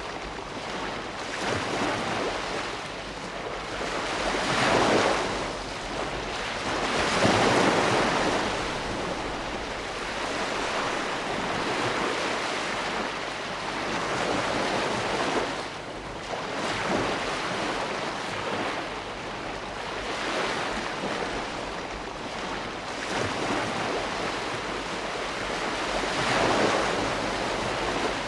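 Ocean waves breaking and washing onto shore in a continuous rush, swelling and easing every few seconds, with the biggest surges about five and eight seconds in.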